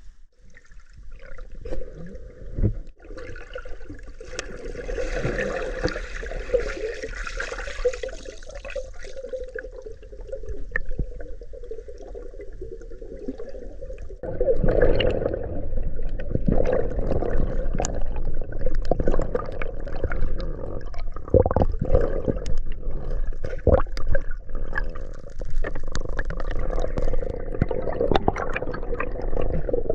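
Water gurgling and sloshing around swimmers diving through a flooded cave passage. About halfway through it gets louder, with a run of sharp splashes and knocks.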